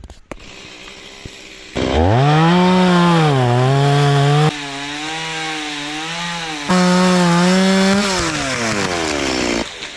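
Two-stroke Stihl chainsaw revved up about two seconds in, its pitch dipping and rising as it cuts a branch, quieter for a couple of seconds midway, then the revs fall away and it stops near the end.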